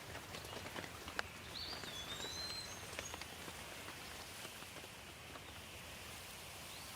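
Light rain falling, an even hiss with scattered individual drops clicking. A bird whistles a few short, curving calls about one and a half to three seconds in.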